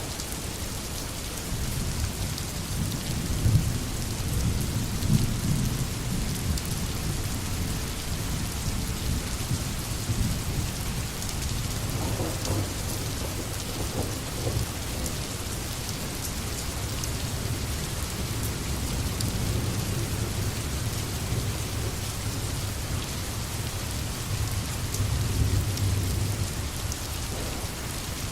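Steady rain falling, with low rolls of thunder rumbling a few seconds in and again near the end.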